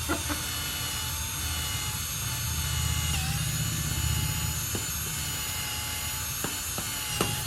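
Power drill running steadily as it bores a hole into a fiberglass boat hull in the nacelle, with a constant motor whine. Its pitch dips briefly about three seconds in, as if under load, and a few small knocks come near the end.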